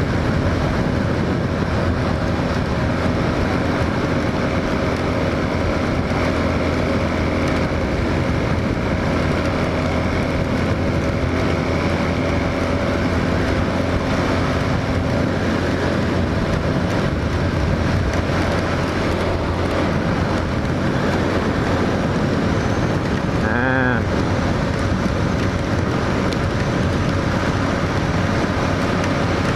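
Hawk 250 motorcycle's single-cylinder engine running at a steady cruise, mixed with wind rushing over the microphone. A brief warbling tone is heard near the end.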